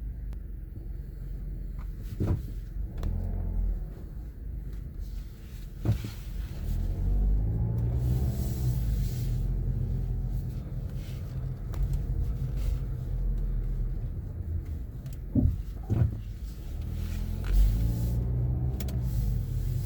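Low road rumble of a 2016 Mazda CX-5 on the move, twice overlaid by a wavering, pitched creaking groan as the car brakes, with a few sharp clicks. The creak on braking is a fault the owner has not yet diagnosed.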